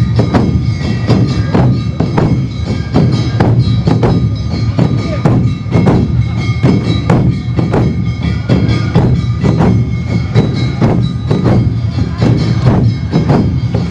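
Awa Odori festival music played by a dance troupe's band: drums and bell-like metal strikes beat a steady, quick rhythm of about two to three beats a second, with held pitched notes above.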